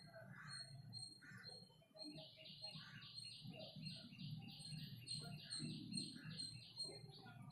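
Faint bird chirping. About two seconds in, a quick run of repeated chirps starts, about three a second, and lasts until near the end. Under it is a steady high chirp that repeats a few times a second, over a low hum.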